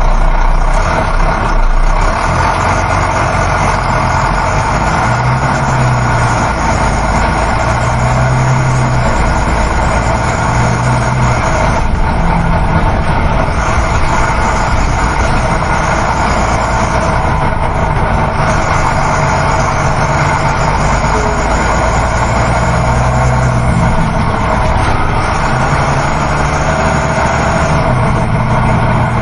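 Interior ambience of a moving coach bus: a steady drone of the diesel engine and road noise, with the low engine note rising and fading a little every few seconds.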